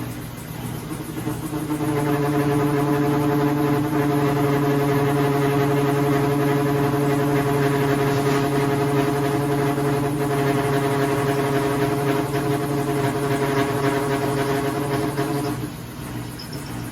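Maytag MVWP575GW top-load washer running with a loud, steady humming drone that comes in about two seconds in and breaks off briefly near the end. It is one of the unusual noises the owners began hearing from the new machine with a load of sheets.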